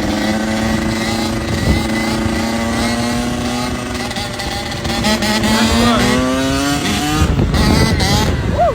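Motorcycle engine held at high revs, its pitch rising slowly, then climbing further from about five seconds in, with a rougher stretch of quick pitch swoops near the end.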